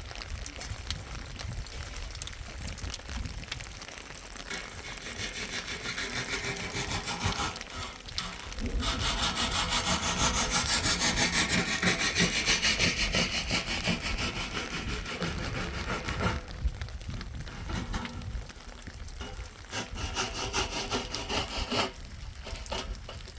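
Continuous sawing-like rasping of rapid back-and-forth strokes, loudest through the middle and easing off near the end.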